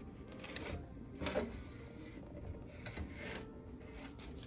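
A few short rustling, clicking handling noises, the strongest about a second in and about three seconds in, over a faint steady hum.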